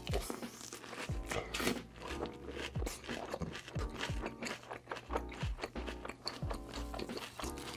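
Close-miked chewing of a big mouthful of lettuce and salmon in creamy dressing: many quick crunchy, wet bites, over soft background music.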